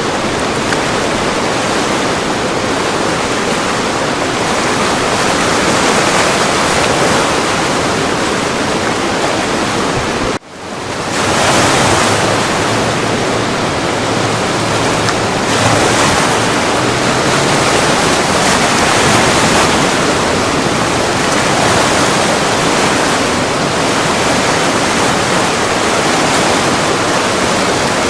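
Flood-stage river rapids: a loud, steady rush of whitewater pouring over boulders. The sound breaks off for an instant about ten seconds in, then carries on.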